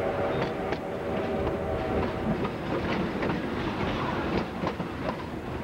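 A narrow-gauge train's whistle holding several notes at once, stopping about two seconds in, then the wheels clicking over rail joints as the train rolls, heard from aboard the train.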